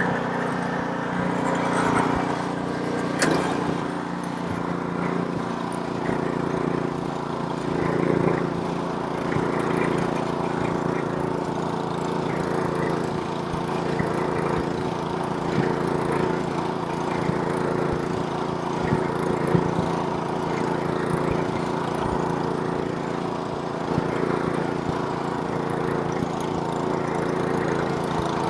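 Snowblower's small gasoline engine running steadily under load while clearing snow, with the rushing of snow through the auger and chute. A brief click or knock about three seconds in.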